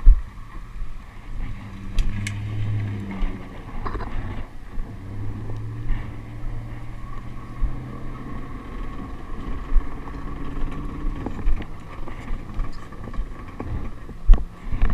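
Motor vehicle engine humming at a steady low pitch for a few seconds, twice, with several sharp thumps, the loudest at the start and near the end.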